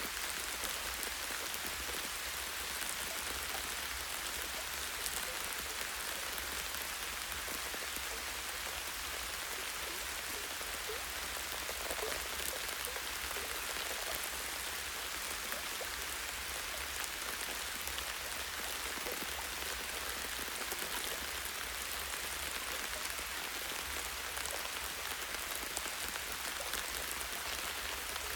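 Light rain falling steadily on leaves and branches, an even hiss with scattered drop ticks.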